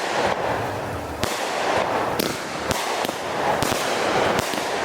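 Consumer fireworks going off: a string of sharp bangs, roughly one every half second to second, over a steady crackling hiss.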